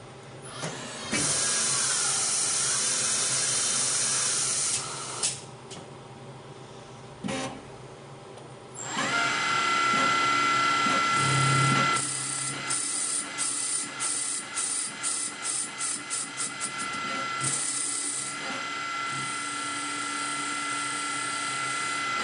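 Newen Contour-BB valve seat machine cutting a new exhaust valve seat in a Jaguar-Ford AJ-V8 cylinder head with a single-point tool. A loud hiss for the first few seconds, then the spindle's steady whine, with a run of pulses midway that come faster and faster. The cutting cycle takes about thirteen seconds.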